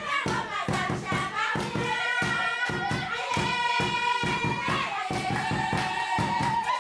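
Local group of singers performing a song together, several voices in harmony over a steady beat of about four strokes a second.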